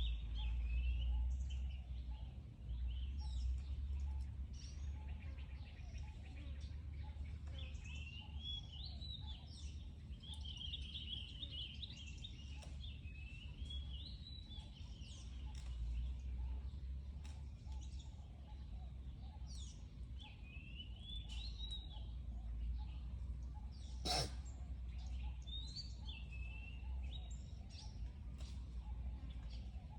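Small birds chirping and calling over and over, short high sweeping notes, over a low outdoor rumble such as wind. One sharp click stands out late on.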